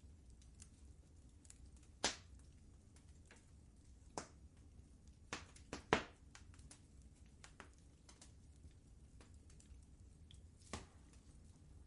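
Wood fire crackling in a fireplace: faint, scattered sharp pops and snaps over a low steady rumble, the loudest pops about two seconds in and around six seconds in.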